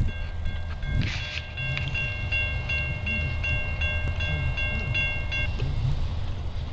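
Norfolk Southern maintenance-of-way train rumbling past, with a bell ringing in quick repeated strokes that stops about five and a half seconds in. A loud knock comes at the start and another about a second in.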